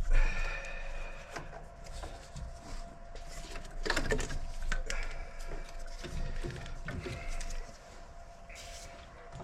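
Irregular clicks, knocks and short squeaky scrapes of hands and tools working at the vacuum line and fittings in the engine bay of a 4A-GE engine.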